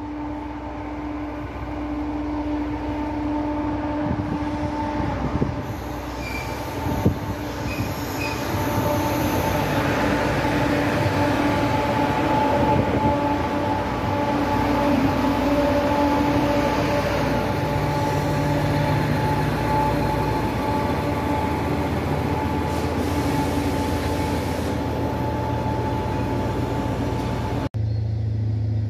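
Trenitalia regional multiple-unit train approaching and running close past along the platform: a steady rumble of wheels on rail with high, steady whining tones over it, getting louder through the first half. The sound cuts off abruptly near the end.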